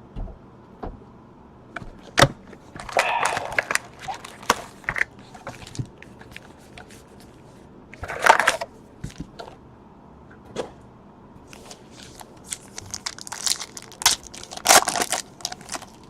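Trading-card packs and cards being handled: foil wrappers crinkling and tearing, with irregular sharp clicks and snaps of cards and cases, the loudest rustles about three seconds in, midway and near the end.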